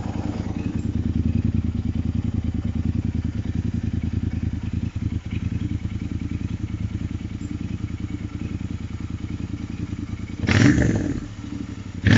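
Royal Enfield Interceptor 650 parallel-twin engine idling steadily through its stock exhaust, which has the baffle pipe's inlet bent toward the baffle for a deeper, throatier note. Near the end the throttle is blipped twice, in two short rises in revs.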